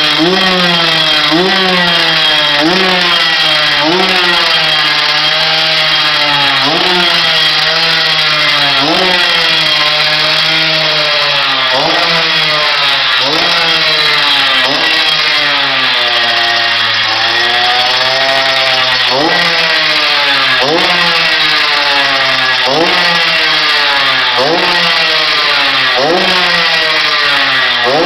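Vintage two-stroke motocross motorcycle engine revving hard, its pitch climbing and dropping back over and over, about once a second. Around the middle the revs sag lower for a few seconds before the rapid climbs resume.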